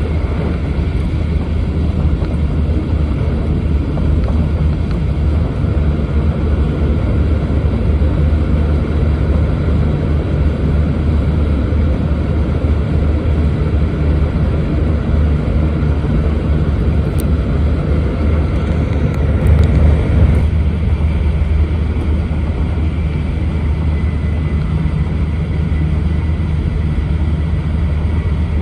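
Running noise of an E4 series bilevel Shinkansen at speed, heard inside the passenger car: a steady, loud low rumble with a hiss over it. About twenty seconds in it swells briefly, then the middle of the noise drops a little.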